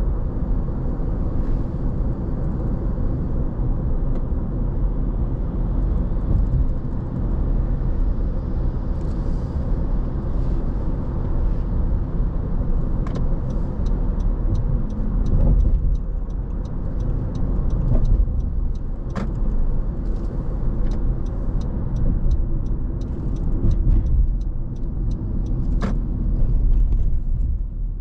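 Car driving on a city road: steady engine and tyre rumble, with a run of faint ticks and clicks through the second half.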